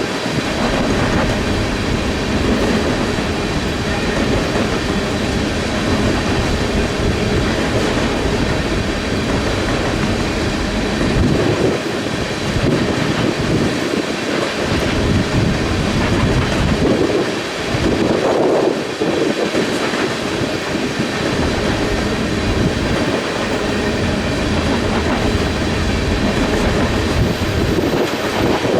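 Freight train cars rolling past, wheels clattering steadily over the rails, with gusting wind buffeting the microphone.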